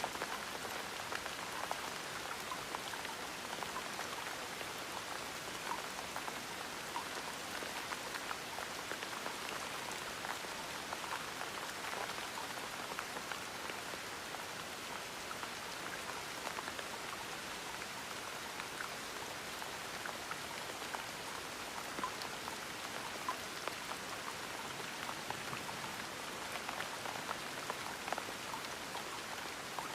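Gentle rain falling steadily, a continuous patter with many small scattered drop ticks.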